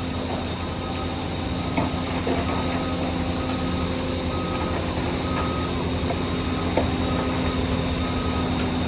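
Diesel engine of heavy earthmoving machinery running steadily, with a reversing alarm giving a series of short, evenly spaced beeps. A couple of brief metallic clanks come about two seconds in and again near seven seconds.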